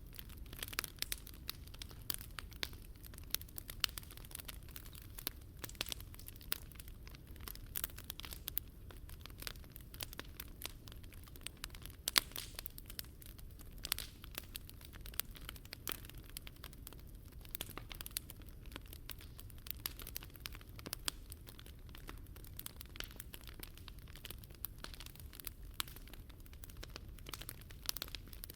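Wood fire crackling, with irregular sharp pops throughout and the loudest pop about twelve seconds in.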